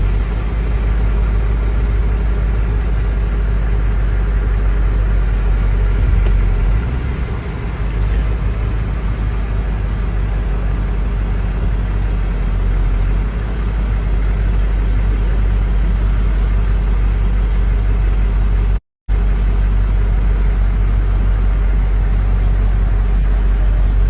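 Steady low rumble of a running motor vehicle, with an even hum; it drops out completely for a moment about nineteen seconds in.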